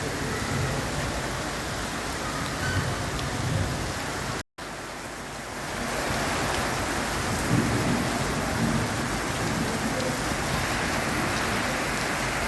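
Steady hiss of rain falling, with occasional low rumbles underneath. The sound cuts out completely for a moment a little over a third of the way through.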